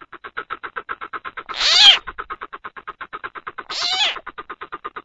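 Coucal (bìm bịp) calling in a fast, even series of short notes, about eight or nine a second, played as a lure call. Two louder, harsher calls with gliding pitch break in, about one and a half seconds in and again near four seconds.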